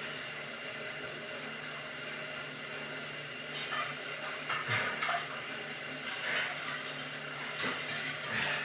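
Stationary exercise bike being pedalled steadily, a continuous whirring hiss with a low hum, with a few faint short sounds over it.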